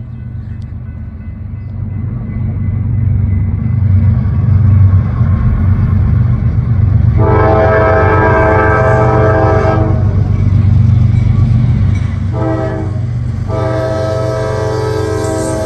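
Eastbound CSX freight's GE diesel locomotives approaching with a low engine rumble that grows louder, while the lead unit's Nathan K5LA five-chime air horn sounds a long blast, then a short one and another long one: the grade-crossing signal for the road crossing.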